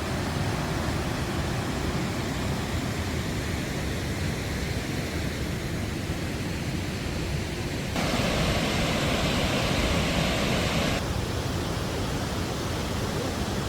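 Steady rushing of the Krka waterfalls' cascading water. About eight seconds in it turns suddenly louder and brighter for about three seconds, then settles back.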